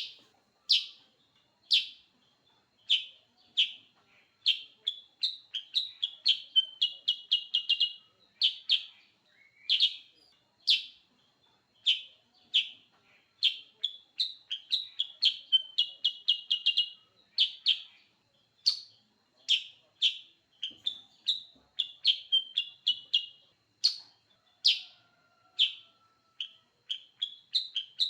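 Kutilang sutra singing without pause: separate bright chirps alternate with quick runs of rapid notes, about seven to eight a second, around six, fifteen and twenty-three seconds in.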